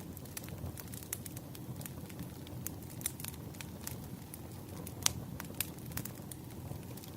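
Wood fire burning: a steady low rumble of flames under frequent irregular crackles and small pops, with one sharper pop about five seconds in.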